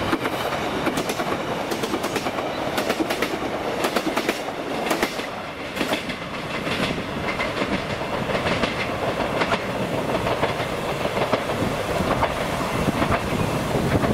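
Class 156 diesel multiple unit running past and away along the track, its wheels clicking over the rail joints in an irregular clickety-clack over a steady rumble.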